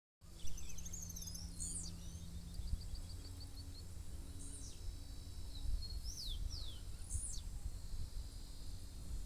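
Wild birds calling outdoors: a rapid series of repeated high notes in the first couple of seconds, then a few short, high, falling calls, over a steady low rumble.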